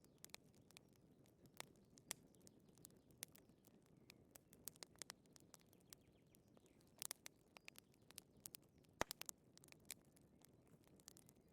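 Wood fire crackling softly: irregular pops and snaps over a low, steady hiss of flames.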